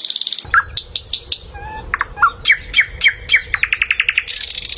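Small birds chirping and trilling: a fast buzzy trill that stops about half a second in, then a string of short down-slurred chirps, a rapid even trill and a high buzzy trill near the end.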